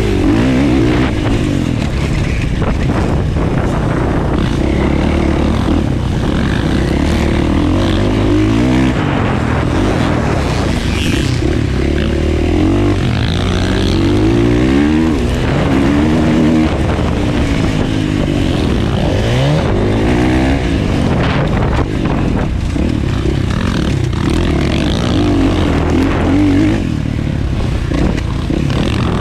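Motocross bike engine racing, revving hard and easing off over and over, its pitch climbing and dropping through the gears over a steady rush of noise.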